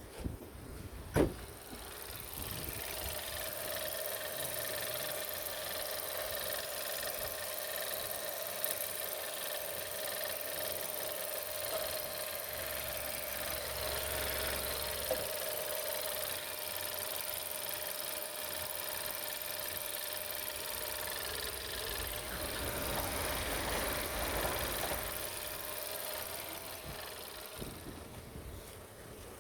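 VW Golf 5 1.4 TSI (CAXA) petrol engine starting about a second in after a sharp click, then idling steadily with a constant tone over the engine sound, fading a little near the end.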